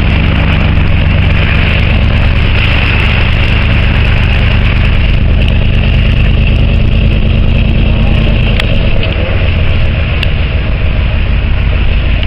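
Motor vehicle running, a steady low engine hum under loud, even noise.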